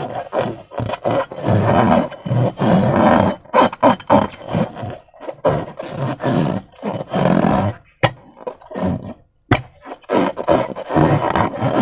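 Slime being squeezed and squished with rubber balloons, squelching in irregular bursts, with two sharp clicks about eight and nine and a half seconds in.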